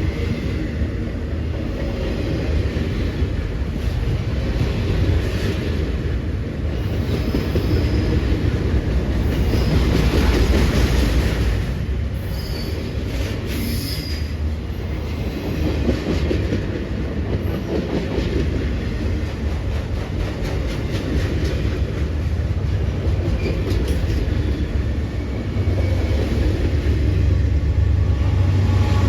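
Freight train rolling past: a steady rumble of wheels on rail, with brief high wheel squeals about halfway through and a run of rapid clicks a little later.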